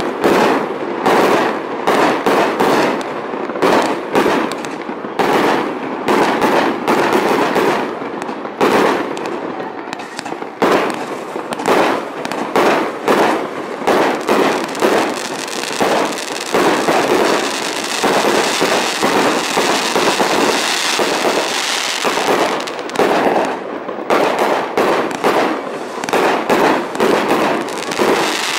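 Fireworks display: shells launching and bursting in quick succession, with sharp bangs about one or two a second. Around the middle the bangs thin out into a steadier crackling hiss before the rapid bangs pick up again near the end.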